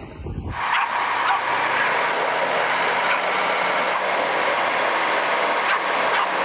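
Heavy truck engine running steadily, coming in suddenly about half a second in.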